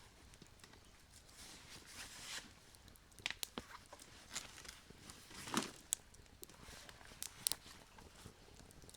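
Campfire crackling: irregular sharp pops and snaps of burning wood, a few louder ones scattered through, over a faint hiss.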